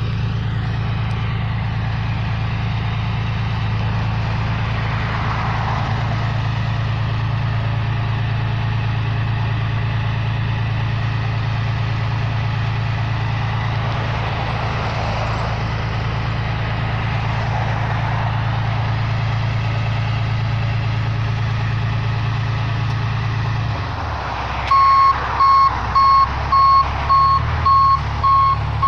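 Tow truck engine running steadily with a deep hum; about 24 seconds in the engine note changes and the truck's reversing alarm starts beeping, a single high tone repeating about every two-thirds of a second.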